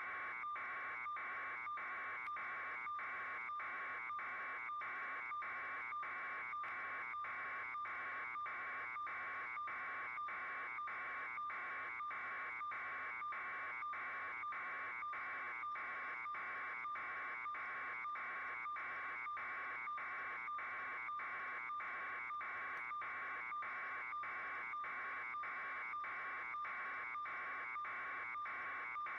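A steady buzzing tone, strongest in the upper-middle pitch range, pulsing evenly about twice a second without change.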